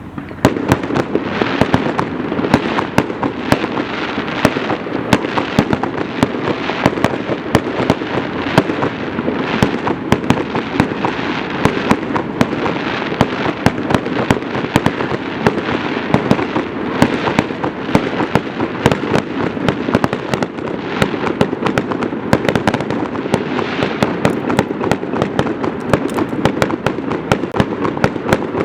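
Fireworks display: a dense, continuous barrage of bursts and crackles, many reports a second, starting abruptly at the beginning.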